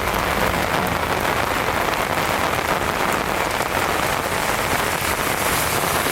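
Heavy rain falling steadily, an even, dense hiss of drops with no change in strength.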